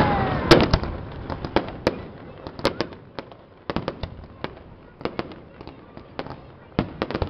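Aerial fireworks going off: a long irregular string of sharp bangs and crackles, some single and some in quick clusters of two to four. A short falling whistle comes at the very start.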